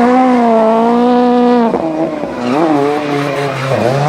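Rally car engine held at steady high revs while the car spins donuts, with tyres squealing. Less than halfway through, the revs drop and waver with short blips, sink low near the end, then climb again.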